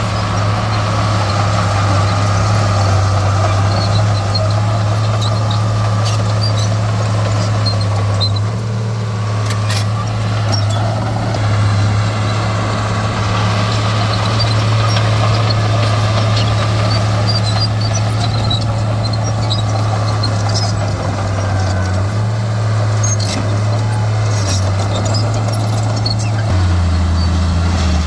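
Heavy diesel engine of earthmoving machinery running steadily, its low note shifting down a couple of times near the end, with a few sharp knocks.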